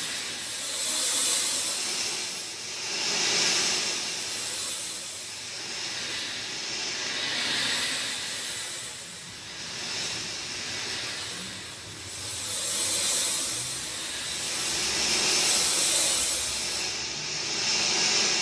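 Steady rain hiss, a dense even patter that swells and eases every few seconds.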